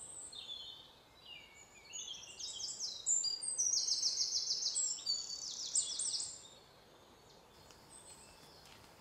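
Small birds calling and chattering together: many quick, repeated high chirps and trills overlapping, busiest in the middle and dying away about six seconds in.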